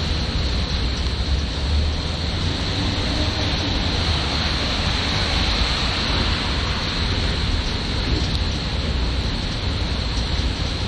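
Steady rain falling on a city street, an even hiss with a low rumble underneath.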